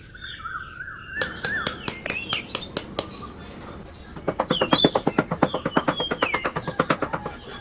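Small birds chirping in short rising and falling notes, over a series of sharp clicks: scattered at first, then a fast even run of about ten a second for some three seconds in the second half.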